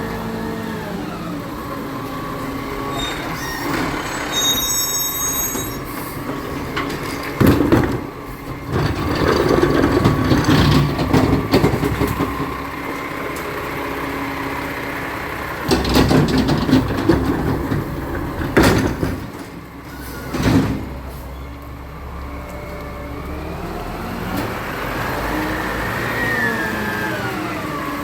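Recycling truck running, its engine and hydraulics giving gliding whines and squeals, with several loud bangs and clatters through the middle.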